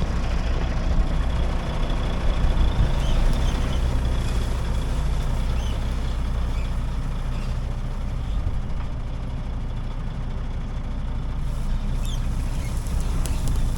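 Truck engine running steadily while the truck is being moved into position.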